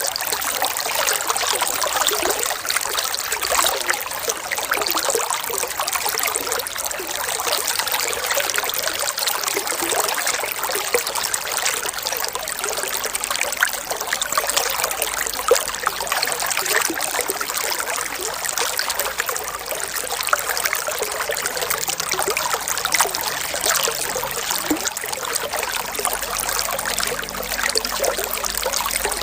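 Water trickling and running steadily in a continuous splashing hiss, with little low rumble and no separate splashes standing out.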